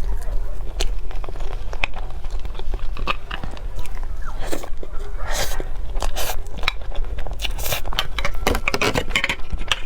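Close-miked eating sounds of a person chewing cake: many sharp mouth clicks with a few longer, louder noisy bursts in the second half, over a steady low hum.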